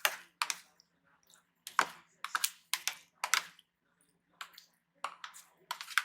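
A spoon clicking and tapping against a dish while the creamy buko pandan salad is scooped or stirred: about nine sharp, irregular clicks with short gaps between.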